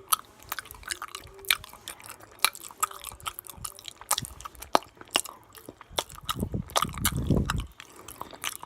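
Close-miked mouth sounds of someone eating: wet chewing and lip-smacking with many sharp mouth clicks. A low rumble lasts a little over a second near the end.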